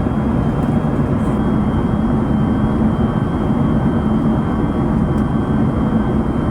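Steady cabin noise of an Airbus A380 airliner in flight: jet engine and airflow noise with a low hum and a faint high whine running under it.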